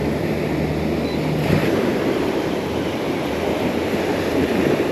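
Waves washing on a beach and wind on the microphone, a steady rushing noise. A low hum underneath stops about a second and a half in.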